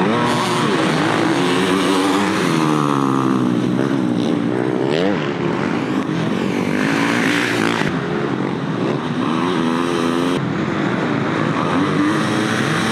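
Several motocross bikes racing, their engines revving up and down one over another as they accelerate and back off around the track.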